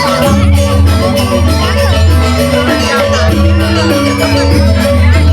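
Balinese gamelan music: quick, ringing metallophone notes over a steady low drone.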